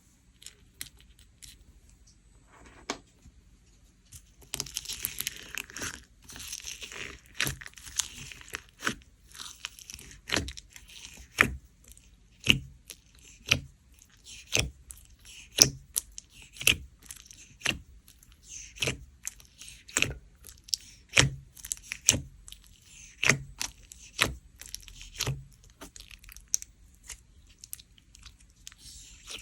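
Foam ball slime being squished by hand, crackling and crunching at first, then giving sharp pops about once a second as the beads burst.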